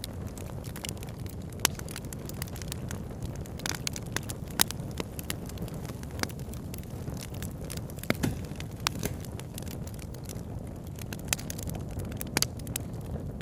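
Campfire crackling, with irregular sharp pops, a few much louder than the rest, over a steady low rush of flowing river water.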